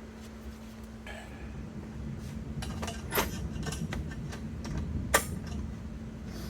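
A series of clicks, knocks and light clatter from something being handled, the two sharpest about three and five seconds in, over a steady hum.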